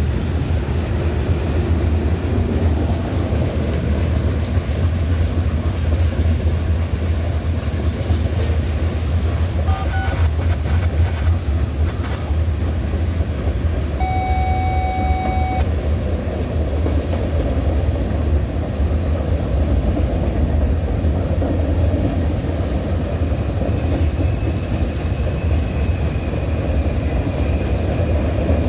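Freight cars of a long manifest train rolling past, with a steady rumble and wheel clatter on the rails. A short steady tone sounds about halfway through, and a faint high wheel squeal comes in near the end.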